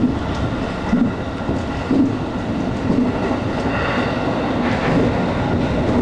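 Running noise heard inside the front of a passenger train at speed: a steady rumble of wheels on rail, with soft thuds about once a second over rail joints in the first few seconds.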